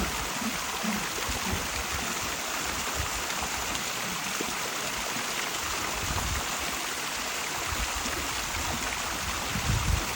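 Steady rush of running water, an even hiss, with a few brief low thumps.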